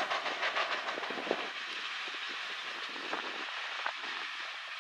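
Approaching Norfolk Southern diesel freight train: a steady rushing hiss of wheels on the rails, with a run of sharp clicks in the first second and a half.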